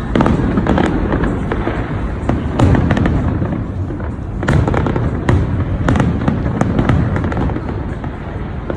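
Fireworks display going off continuously: many bangs and crackling bursts over a steady rumble, with louder reports about two and a half, four and a half and five seconds in.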